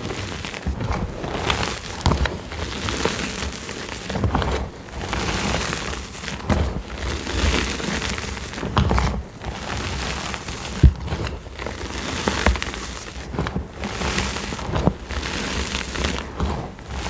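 Gym chalk blocks being crushed and crumbled by hand: a run of irregular dry crunches and crumbling, with one sharper crack about eleven seconds in.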